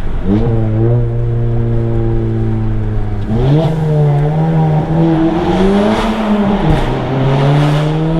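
EQT Stage 2-tuned VW Mk7 Golf GTI's turbocharged 2.0-litre four-cylinder engine under way. Its pitch jumps up at the start and holds, climbs again about three seconds in, then eases back down and steadies near the end.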